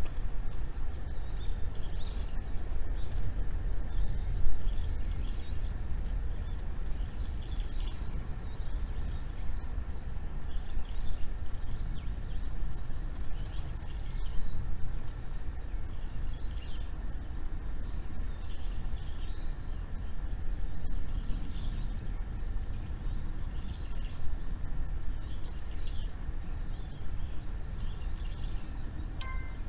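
Outdoor ambience of a steady low rumble, with short bird chirps repeating throughout.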